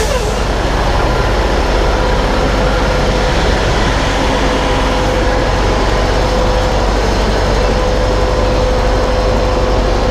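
Semi truck's diesel engine running steadily at low speed as the rig backs up, with a steady hum over the engine noise.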